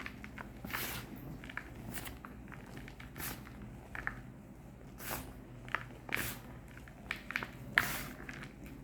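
Reformed gym chalk bars being crushed: irregular dry crunches and crumbles, about one a second, the loudest near the end.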